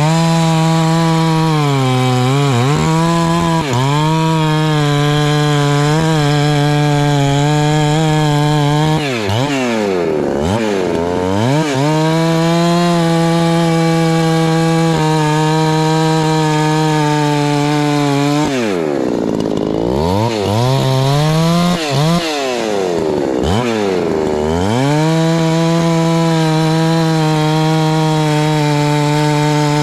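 Husqvarna 390 two-stroke chainsaw bucking Douglas fir rounds, held at a steady high pitch through long cuts. Twice in the middle, and briefly near the start, the engine drops back toward idle and revs up again before going back into the wood.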